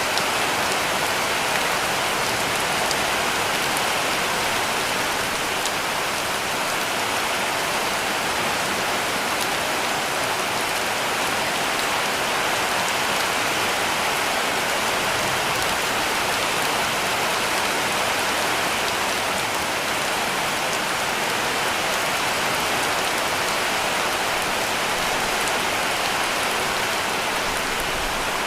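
Heavy rain falling steadily on a cabin roof, an even hiss with scattered drop ticks.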